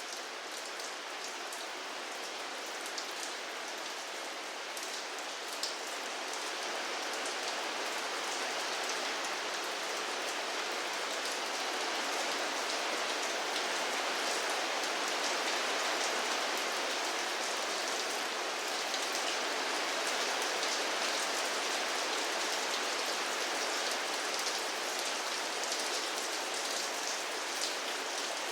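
Steady rain falling, a dense even patter of drops on a surface that grows a little heavier over the first dozen seconds.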